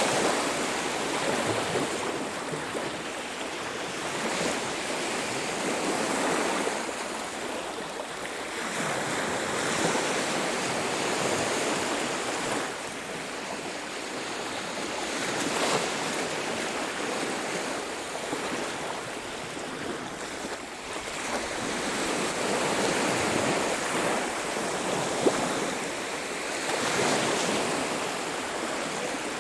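Sea waves breaking and washing up on a beach, the surf swelling and falling every few seconds.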